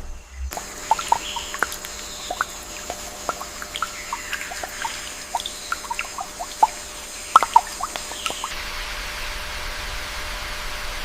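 Water dripping in irregular single plops over a steady high-pitched whine. The whine stops about eight seconds in, leaving an even hiss.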